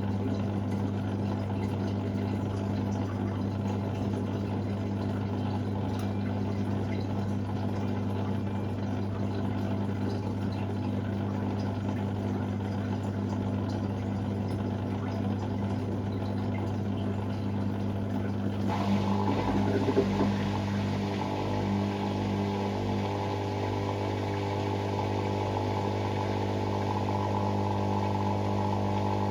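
Hoover Sportswear 1300 (AI130) washing machine running with a steady low hum. About two-thirds of the way through, a second, higher whine starts with a brief knock and runs on over the hum.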